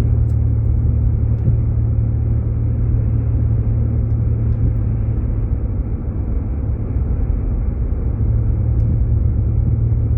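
Steady low rumble of a Jeep Grand Cherokee on the move, its engine and road noise heard from inside the cabin.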